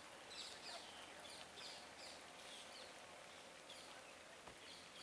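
Faint background of small birds chirping, with quick high chirps repeating several times a second over a steady outdoor hiss.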